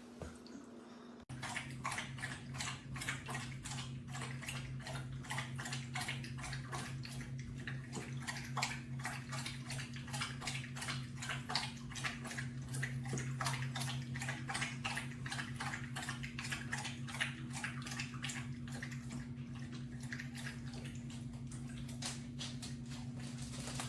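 A dog lapping water from an electric pet fountain: quick, even splashy laps, about three to four a second, starting a little over a second in. A steady low hum sounds under them.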